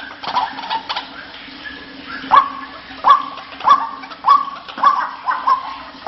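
White-breasted waterhen calling: a fast chatter that trails off in the first second, then after a pause a run of six loud, sharp notes about 0.6 s apart, each dropping in pitch. A faint steady low hum runs underneath.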